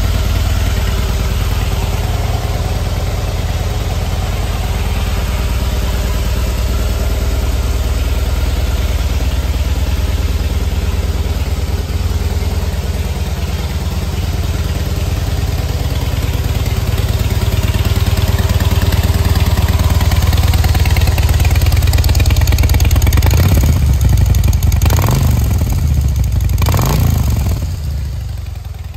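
Harley-Davidson Heritage Softail Classic's V-twin engine idling steadily, then revved briefly three times in quick succession near the end before settling back.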